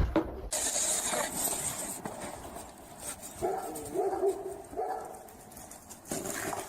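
A dog vocalizing in several drawn-out calls, starting about halfway through.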